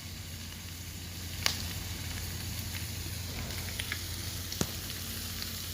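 Steady sizzling hiss over a low hum, with a few sharp pops, the loudest about one and a half and four and a half seconds in: food frying.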